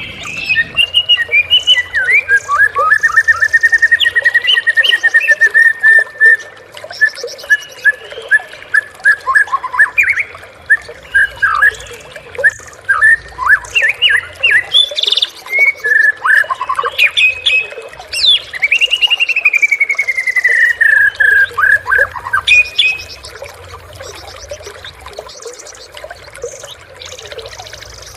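White-rumped shama (murai batu) singing loud, varied song: quick repeated notes, fast trills and sweeping whistles, with a long falling trill near the end of the phrase. The song stops a few seconds before the end.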